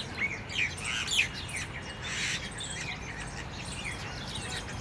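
Jungle babblers calling: many short, squeaky chirps overlapping one another, busiest in the first half, with a short harsh note about two seconds in.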